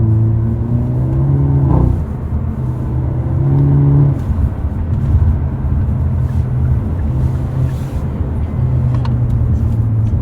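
Hyundai Avante N (Elantra N) engine and exhaust heard from inside the cabin while driving. Its 2.0-litre turbocharged four-cylinder runs under load, and the engine note rises and drops several times.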